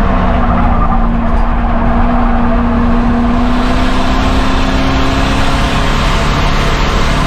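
Race car engine running hard at a steady speed, its pitch rising a little and then easing off, with heavy tyre and road noise.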